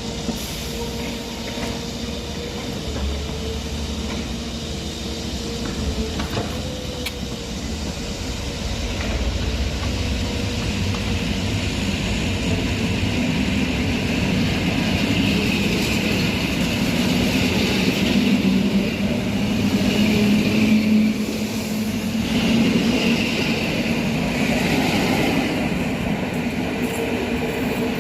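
ED72 electric multiple unit pulling out of the station: a steady electrical hum at first, then the train's running and wheel noise building and growing louder from about ten seconds in, loudest near twenty seconds.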